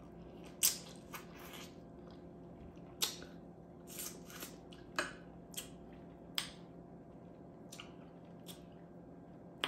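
A person chewing and smacking their lips while eating buttery, sauce-coated food at close range: about ten short wet smacks and clicks scattered over a quiet background.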